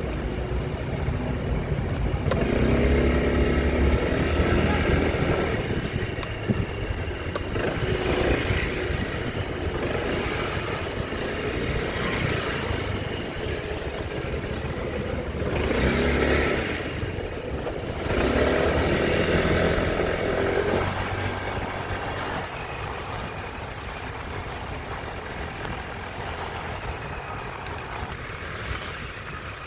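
Motor vehicle engines in street traffic, swelling louder and fading again several times, loudest a few seconds in and around the middle.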